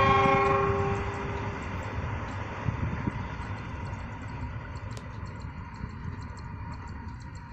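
Freight train's locomotive horn sounding, cutting off about a second in, followed by the train's steady rumble on the rails, slowly fading.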